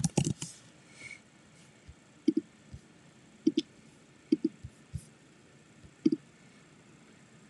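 Computer mouse clicking: a handful of short clicks, mostly in quick pairs, a second or so apart.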